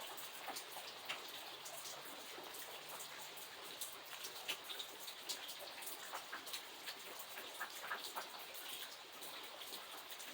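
Steady rain falling, with many separate drops ticking on a surface over the hiss.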